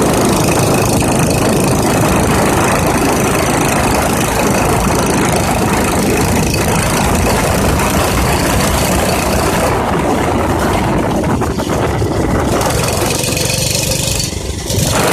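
Minibike's small engine running steadily, its level dipping briefly near the end.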